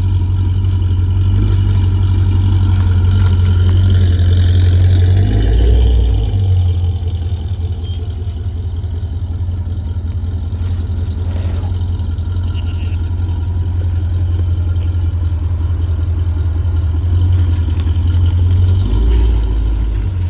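Chevrolet C6 Corvette's V8 engine revved and held, falling back about six seconds in to a steady run. It swells again late on and settles back near the end.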